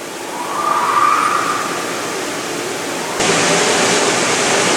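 Steady rushing hiss of an EVAP smoke machine pressurizing a car's evaporative emission system. About three seconds in, the hiss suddenly gets louder.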